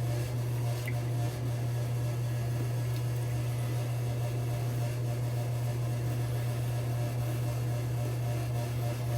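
A steady low hum that does not change, over faint, even background noise.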